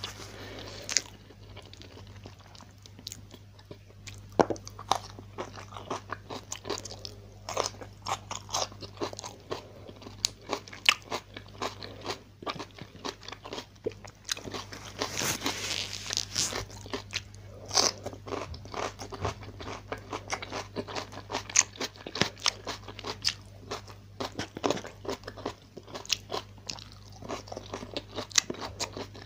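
Close-miked eating: irregular chewing and sharp crunches, the biggest run of crunching about halfway through, as a meal of fried tilapia, rice and stir-fried bok choy is eaten by hand. A faint steady low hum sits underneath.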